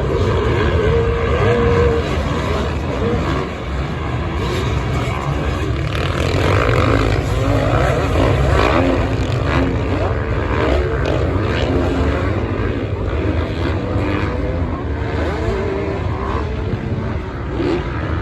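Many motocross bike engines running together at high revs, their notes rising and falling over a steady din.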